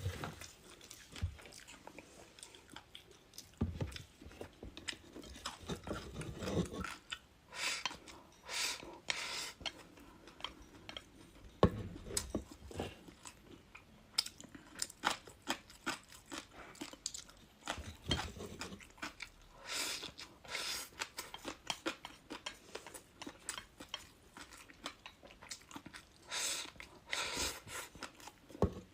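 Close-miked chewing and crunching of crispy fried food, bite after bite, with irregular crackling crunches and softer chewing in between.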